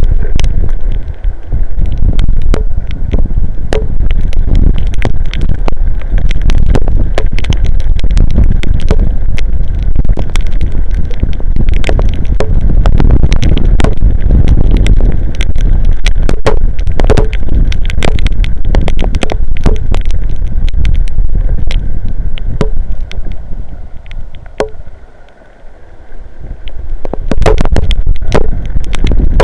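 Strong storm wind buffeting the outdoor camera microphone in a loud, heavy rumble, with sharp taps of heavy rain striking the microphone and housing. The wind drops briefly near the end, then surges back.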